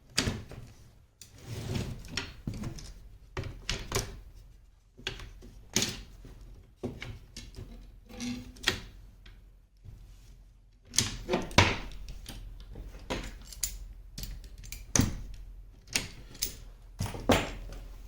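Wooden parasol ribs knocking and clacking against each other and the hub as they are handled and fitted, a string of irregular taps and thunks, busiest in the second half.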